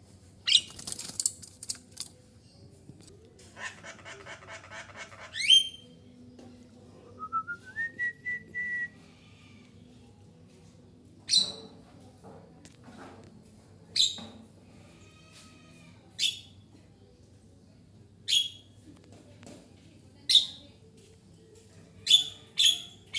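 A bird calling: short, sharp, high calls that each sweep down in pitch, repeated every two to three seconds and coming quicker near the end. Earlier there is a harsh, buzzy chattering call and a rising whistle.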